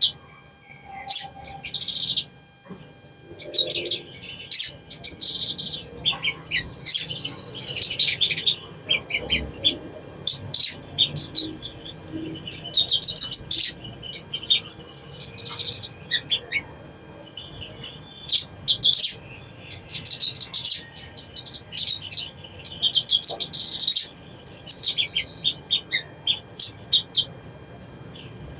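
Sogon (sogok ontong), a sunbird, singing: rapid high-pitched twittering and chirping phrases that come in repeated bursts with short pauses between them.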